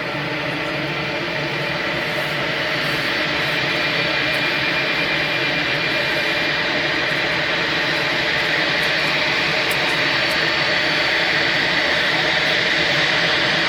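Airliner engines running: a steady rushing noise with a thin high whine, growing slowly louder.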